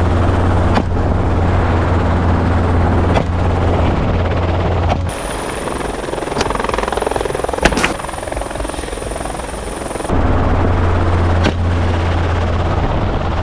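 Helicopter in flight, a steady low drone with engine and rotor noise. For about five seconds in the middle the sound changes, the low drone dropping back under a thin high whine, with a few sharp cracks, the loudest just before it returns.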